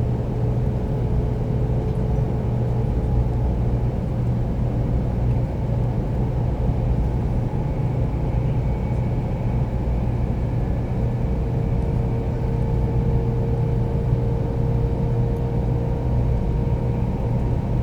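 Steady low rumble of a Tokaido Shinkansen 300 series train running at speed, heard inside the passenger car, with faint steady whining tones above it.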